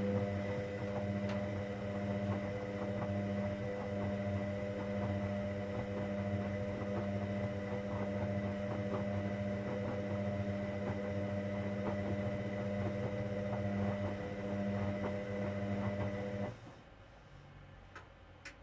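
Hoover Dynamic Next washing machine running mid-cycle: a steady electrical hum with light clicking and rattling on top. It cuts off abruptly about three-quarters of the way through, leaving two faint clicks near the end.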